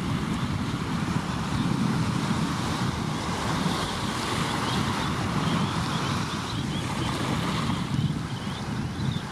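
Waves breaking and washing on the shore, a steady rushing noise, with wind buffeting the microphone.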